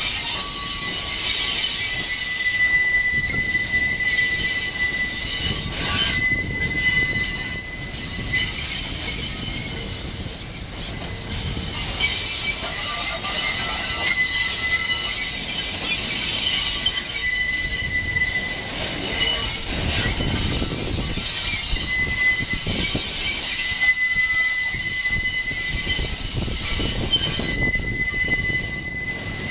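R68-series New York City subway train rolling through the yard, its steel wheels squealing against the rails. The high, steady squeal fades and returns over a low rumble of the train.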